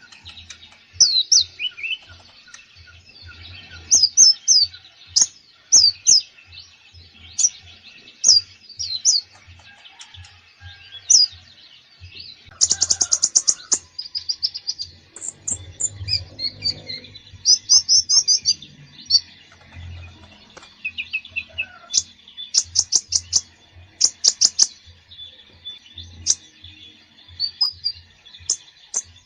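Konin songbird in full song, packed with fill phrases: a busy run of sharp high chirps and quick trills, with fast stuttering rattles about 13 seconds in and again around 23 to 25 seconds.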